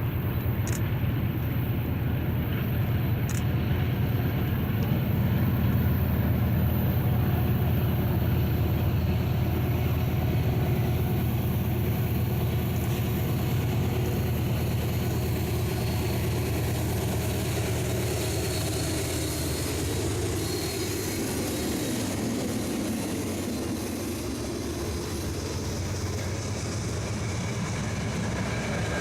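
Diesel freight train passing, with a steady low drone from the locomotives over the noise of the rolling cars. It is loudest several seconds in and eases off in the second half.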